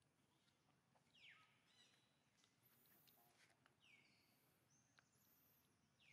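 Faint high bird chirps, several sliding quickly down in pitch, with very high thin calls between them, over an otherwise near-quiet background.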